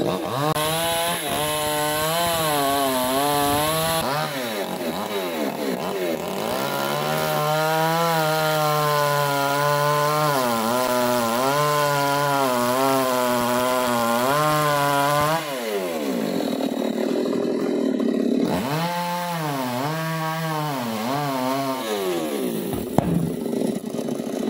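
Chainsaw running at high revs, its pitch wavering up and down as it works. It eases down about 15 seconds in, then revs up and down in short swells near the end.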